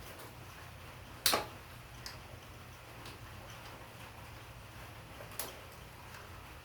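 Sharp clinks of a 13 mm wrench on engine bolts and hardware while working a bolt loose in a tight spot: one loud clink a little over a second in, another near the end, with a few light ticks between.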